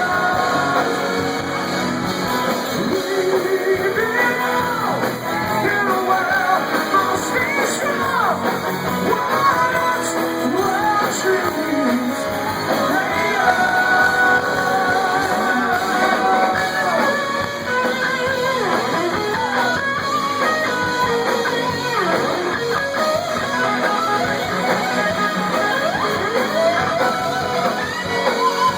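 Live rock band playing: guitar with a singer over it.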